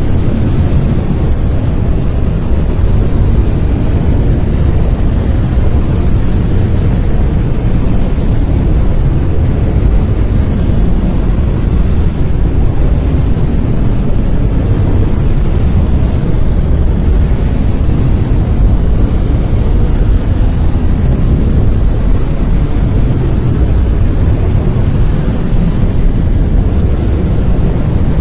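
Steady brown noise: an even, deep rumbling hiss, strongest in the bass and thinning toward the treble, with no change throughout.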